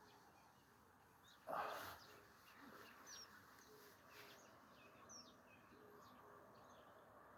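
Quiet outdoor ambience of small birds chirping in short high calls, with a faint low note repeating about twice a second underneath. About a second and a half in, one short rushing noise stands out as the loudest sound.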